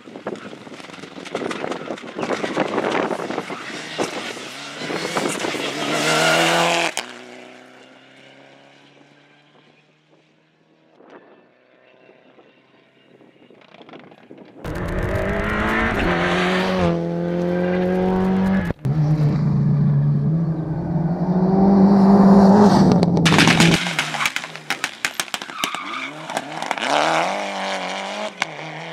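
Rally cars at full speed on a stage, engines revving hard with pitch climbing and dropping back at each gear change. The first car fades away about a third of the way in. About halfway through, a much louder close pass starts suddenly, and the engine revs on through several shifts.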